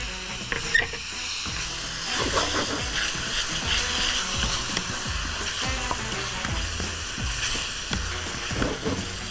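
Okra and onions sizzling in a frying pan while a wooden spoon stirs and scrapes through them and the freshly added blended paste.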